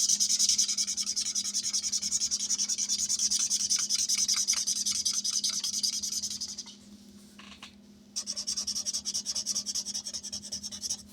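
Colouring in on paper by hand: a colouring tool scratching in rapid back-and-forth strokes. The strokes pause for about a second and a half just after the middle, then resume. A faint steady hum runs underneath.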